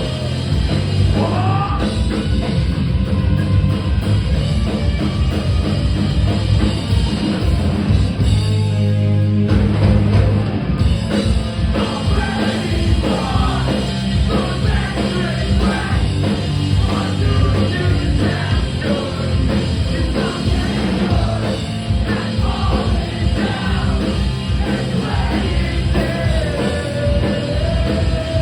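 Live punk rock band playing loud with distorted guitars, bass and drums, and a singer's voice over the top; about eight seconds in the band briefly thins before coming back in full.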